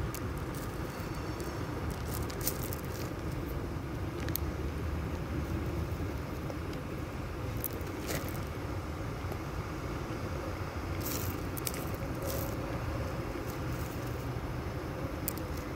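Low, steady rumble of a distant freight train being switched, with a few faint sharp clicks scattered through.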